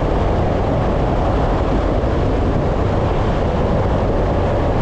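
Steady road and wind noise from a vehicle driving along a highway at a constant speed.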